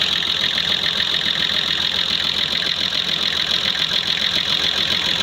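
Nissan engine idling steadily with an even, rapid pulsing beat.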